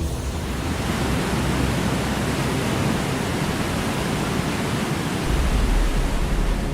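Steady rushing roar of a torrent of muddy floodwater pouring down, with a deeper rumble swelling near the end.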